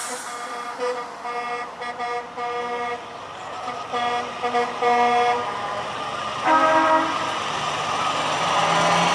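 Truck horns tooting in a series of short blasts through the first five seconds. A second horn with a different pitch sounds briefly about six and a half seconds in, over rising engine and road noise.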